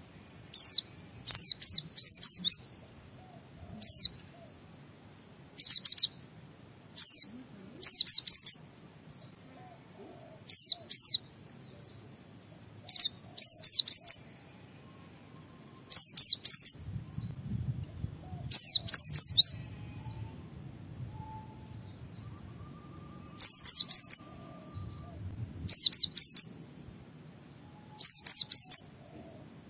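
White-eye (pleci) singing: short bursts of high, quick falling notes, repeated every second or two.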